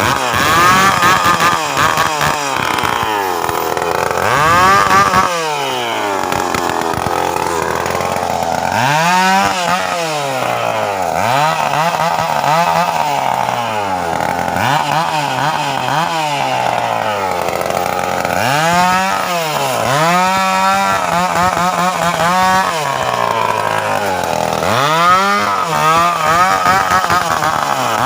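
Stihl two-stroke chainsaw being revved over and over, its engine pitch climbing sharply and dropping back about a dozen times, now and then held at high revs for a second or so.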